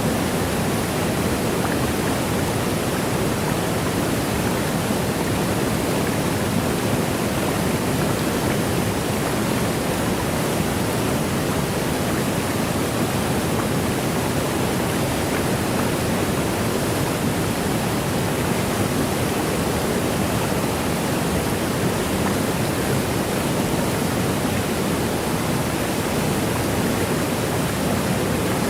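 Waterfall's steady rush of falling water, an even unbroken noise weighted toward the low end, with no change over time.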